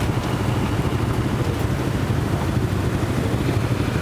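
Motorcycle engine running steadily at speed, with wind rushing over the microphone.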